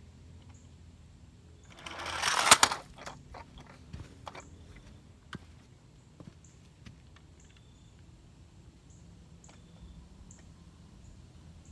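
Electric RC monster truck's motor whirring as it speeds up, ending in a loud crash into a small car about two and a half seconds in, followed by scattered light clicks and knocks.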